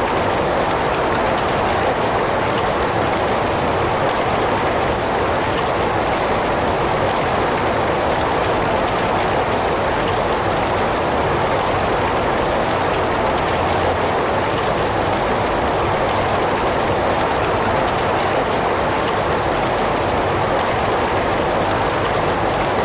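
Heavy rain falling steadily, an even, unbroken hiss of rain with no thunder or distinct drops standing out.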